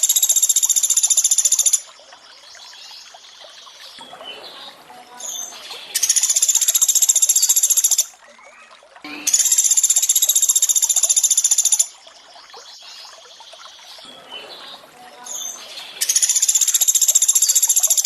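Looped recording of pelatuk beras (rice woodpecker) calls: loud, rapid high trills that come in four bursts of two to three seconds each. Between the bursts a steady background of running water continues quietly.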